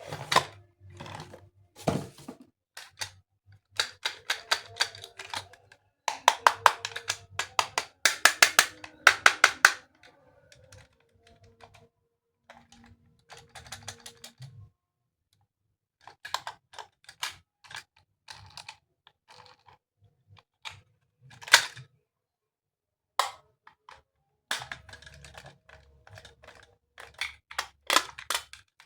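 Plastic toy train parts clicking and rattling as they are handled and fitted together, in bursts of rapid sharp clicks with short pauses between.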